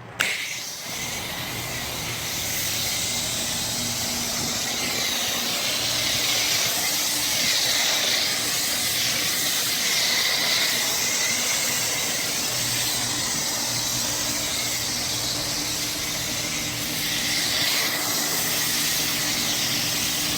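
Pressure washer spraying soap foam through a Chem-X dual foamer: a steady hiss that starts abruptly, with a low steady hum from the machine underneath.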